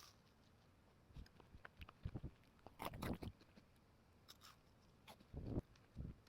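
Close-up chewing of a chewy cookie: a few short bouts of soft, faint mouth and chewing sounds with small clicks. The loudest bout comes around three seconds in and another comes near the end.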